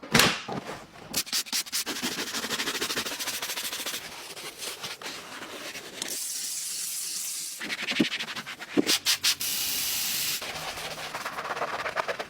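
Car-wash cleaning: a brush or pad scrubbing in quick back-and-forth strokes, alternating with stretches of steady hissing water spray, in short cuts that start and stop abruptly.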